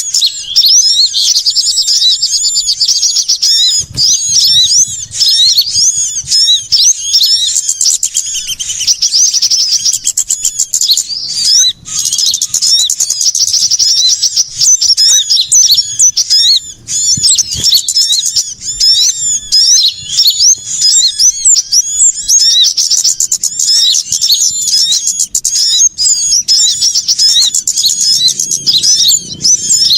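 Dense, busy chorus of many small songbirds chirping and trilling at once, high-pitched and without pause: a bird-lure recording of mixed small birds such as sunbirds, played loud to draw birds in.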